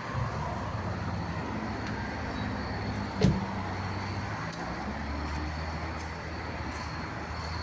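Infiniti Q70 running, a steady low engine hum with road noise. A single thump comes about three seconds in.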